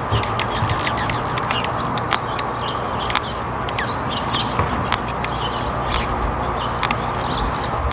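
Small birds giving short high chirps and calls, with many scattered sharp ticks and taps, over a steady background hiss.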